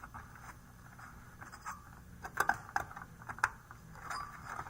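Scattered small clicks and scrapes of a CR2032 coin-cell battery being handled and pushed at its motherboard socket, over a steady low fan hum.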